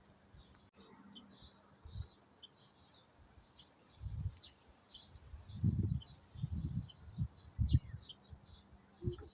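Small birds chirping in a rapid, continuous chatter of short high notes. Several loud low rumbling bursts come and go in the second half.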